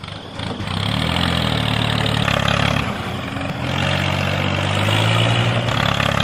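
An engine running steadily with a low, even note that shifts a few times.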